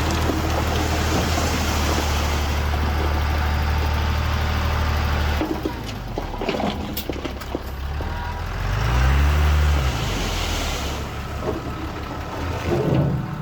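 Heavy diesel engine running steadily under load. About five seconds in it falls back, with a few knocks and rattles. Near nine seconds it revs up and back down once.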